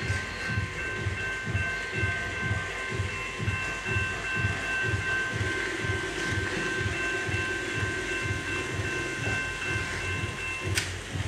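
Train running with a regular clickety-clack beat a couple of times a second, over a steady high whine that cuts off with a click near the end.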